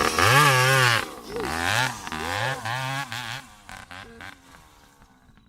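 Dirt bike engine revving: one long rise in pitch, then a run of short throttle blips, fading out after about three and a half seconds.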